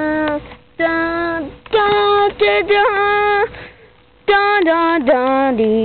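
A child singing a tune without words, in held notes and short phrases with brief breaks between them.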